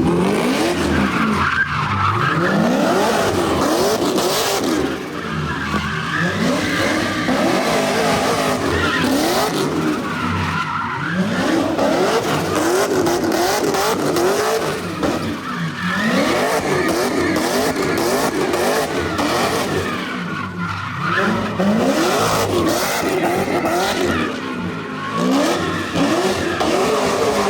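Twin-turbo Ferrari F12 V12 driven hard, its revs climbing and falling again and again through hard acceleration and lifts, with tyres squealing. The engine is so loud.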